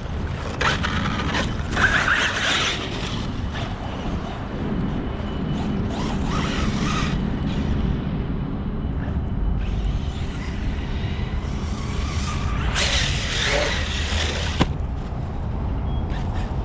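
Arrma Kraton 6S brushless electric RC truck driving off-road, with three louder bursts of motor and tyre noise as it accelerates.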